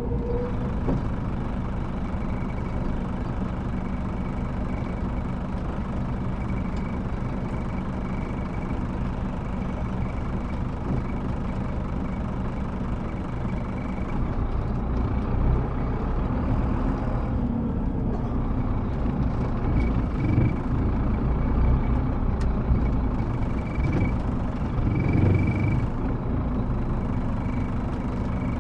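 Scania K310IB coach's rear-mounted diesel engine running at low revs, its sound swelling a few times in the second half.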